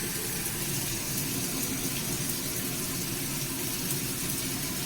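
Chopped onions and vegetables sizzling steadily in a pan with a little oil and soy sauce as they are lightly fried.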